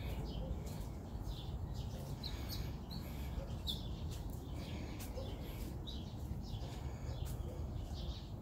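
Small birds chirping: many short, high chirps in quick succession, over a steady low rumble.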